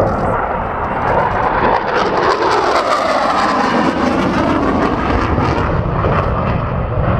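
Eurofighter Typhoon's twin EJ200 turbofan engines sounding loudly during a high-speed low pass at about 600 knots. The pitch sweeps down as the jet goes by, about three seconds in.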